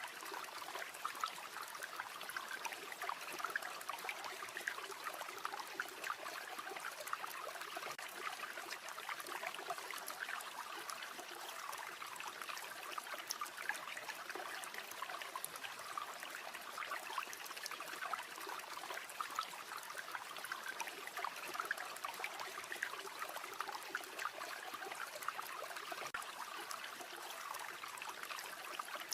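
River water flowing steadily, a continuous babbling trickle.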